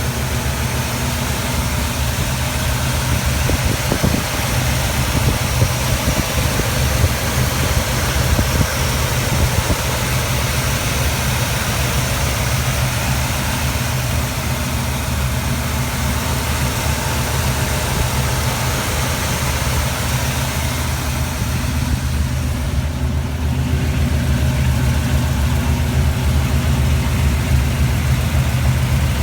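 1980 Jeep CJ7's engine idling steadily.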